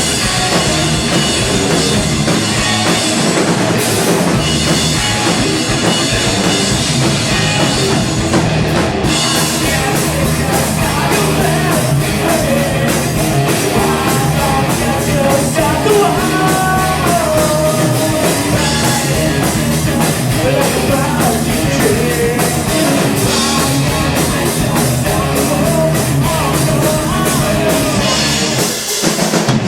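A rock band playing live, with electric guitars, bass and a drum kit, in a stretch without words. The music is loud and even, with a short drop near the end.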